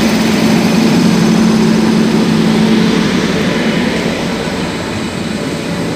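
A WAP-5 electric locomotive passes at close range with a steady low hum. The hum eases about halfway through as the locomotive moves on and its passenger coaches roll past.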